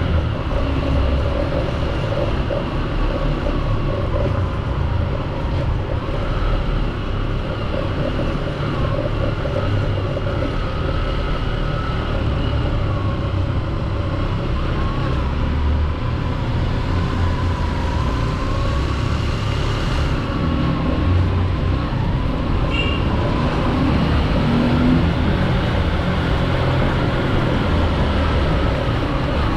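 Honda XR150 single-cylinder engine running steadily in first gear, the bike crawling along at low speed with a constant low rumble.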